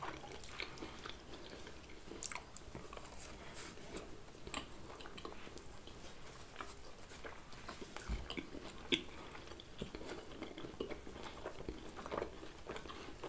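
Two people chewing and biting pizza close to the microphone: quiet, scattered mouth clicks and chewing sounds.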